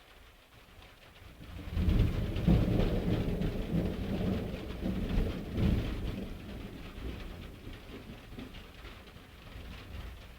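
A peal of thunder: a deep rumble swells about two seconds in, stays loud for several seconds, then slowly dies away over steady rain.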